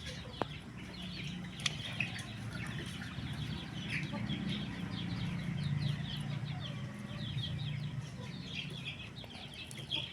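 A flock of chickens calling, with many short high peeps overlapping throughout, over a low steady hum.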